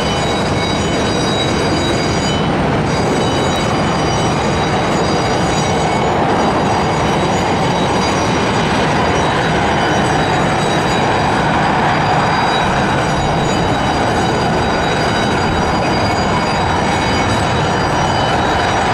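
Airbus A300-600F jet freighter's twin turbofan engines during a landing: a loud, steady rushing noise with several high whining tones running through it.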